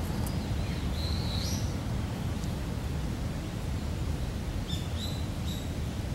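Wild birds chirping in short, high calls, a few near the start and a cluster about five seconds in, over a steady low rumble of outdoor background noise.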